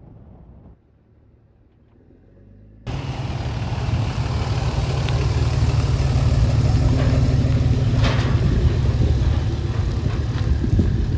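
Motor vehicle running with a steady low rumble and road and wind noise, starting suddenly about three seconds in.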